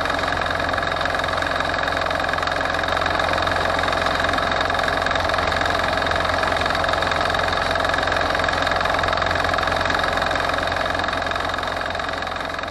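Forte 135E walk-behind tractor's engine running steadily, fading out near the end.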